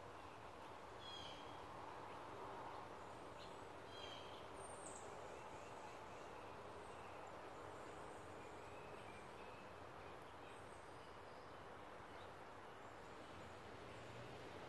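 Faint outdoor ambience with scattered small bird chirps, a few short high calls in the first five seconds and a few fainter ones later.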